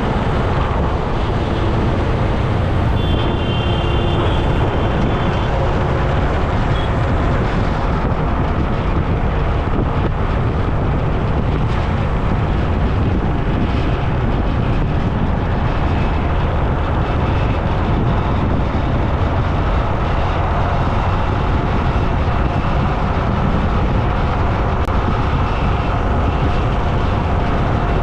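Steady road noise of riding along a road, with wind rumbling on the microphone. A brief high tone comes in about three seconds in.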